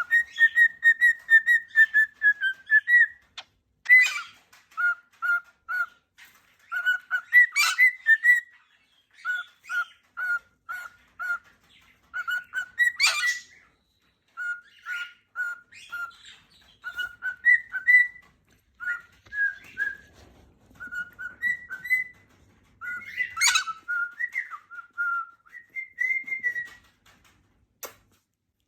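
Pet galah cockatoo whistling: a longer held whistle first, then strings of short repeated whistled notes, broken by four louder screechy squawks.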